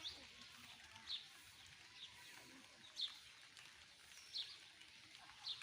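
A bird calling repeatedly: short, high chirps that slide downward, about one a second, six in all, over faint outdoor background noise.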